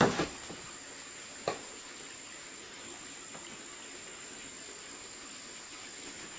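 Two knocks, a loud one at the start and a sharper one about a second and a half in, over a steady hiss with a thin, constant high tone.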